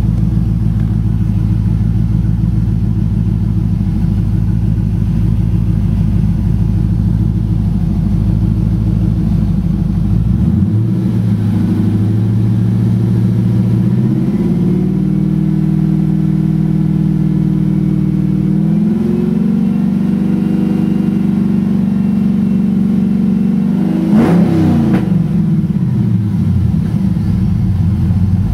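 1999 Camaro Z28's LS6 V8 engine running: idling at first, then held at stepped-up revs through the middle, with one quick blip of the throttle near the end before it settles back down.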